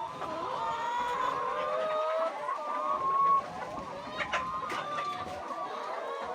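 A flock of chickens clucking and calling together, many overlapping voices, with a few sharp clicks about four to five seconds in.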